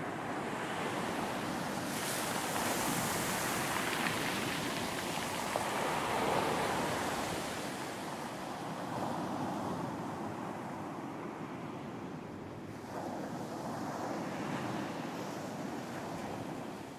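Ocean surf on a beach: waves breaking and washing in as a continuous hiss that swells and eases, loudest in the first half.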